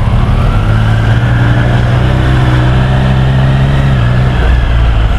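Triumph Street Triple 765 R's three-cylinder engine running steadily under way, its pitch rising slightly and easing back about four seconds in, with wind and road noise.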